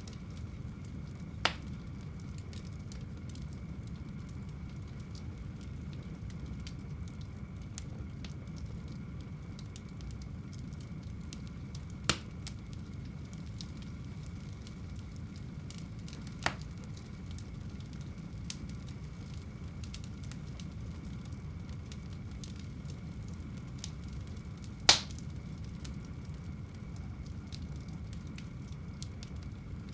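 Wood fire burning in a home fireplace: a steady low rumble with scattered faint ticks, and four sharp pops from the burning wood, the loudest near the end.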